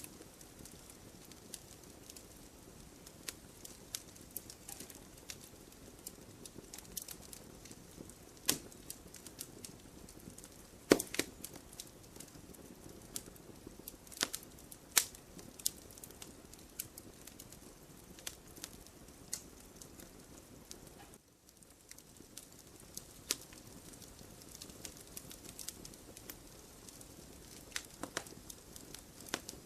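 Wood fire crackling: irregular snaps and pops over a soft steady hiss, a few pops much louder than the rest.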